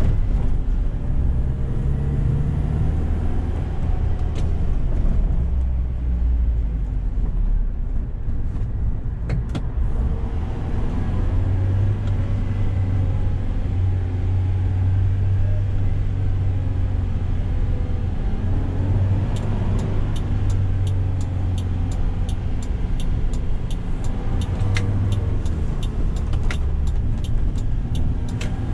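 Toyota 2Y 1.8-litre four-cylinder gas engine of a 1988 Hiace running under way with road noise, its note changing in the first few seconds and then holding steady. From about two-thirds of the way in comes a regular ticking, about two clicks a second.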